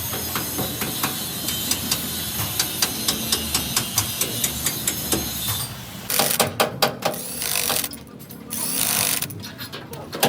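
Hand and power tools working on metal. A run of regular sharp clicks gives way, about six seconds in, to louder short bursts with pauses between them.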